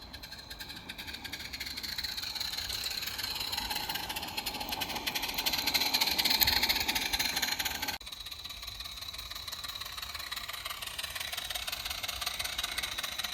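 Garden-railway model W.D. Baldwin locomotive running on its track: a steady mechanical clatter of its running gear and wheels. The sound changes abruptly about eight seconds in.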